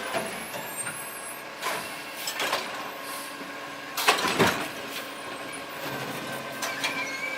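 Garbage truck engine running steadily, with several short hisses of air, the loudest about four seconds in.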